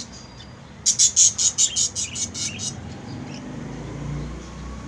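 Budgie giving a quick, even run of high chirps, about six a second, for about two seconds. A faint low rumble follows near the end.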